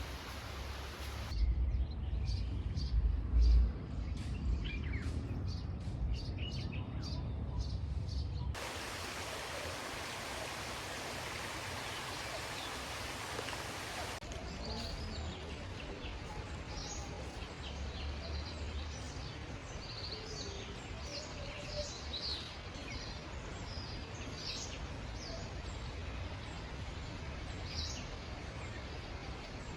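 Small birds chirping repeatedly over the steady rush of a flowing river. There is a heavy low rumble in the first several seconds, and the background shifts abruptly a few times.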